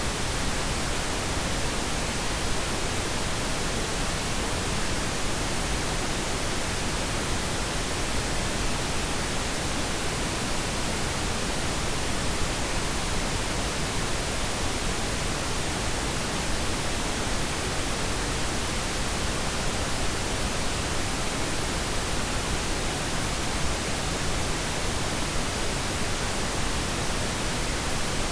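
Steady synthetic pink noise: an even, unchanging hiss spread across all pitches, softer in the highs than white noise.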